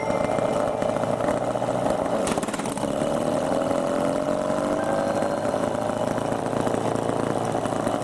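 A small engine running steadily, its pitch drifting slowly up and down, with one brief click a little over two seconds in.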